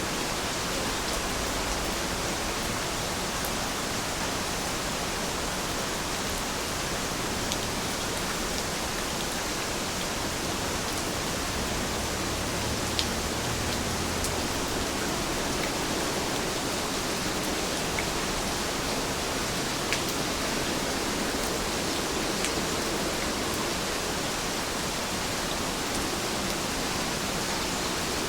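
Steady rain falling, an even hiss with a few sharper ticks of single drops here and there.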